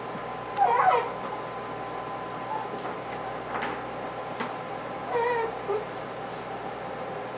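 A 13-week-old American Indian dog puppy giving two short, whiny, yelping complaints, one about a second in and one around five seconds in, with a few sharp clicks between them. These are frustrated vocalizations: he is complaining that the bully stick he is chewing is too tough to get through fast enough.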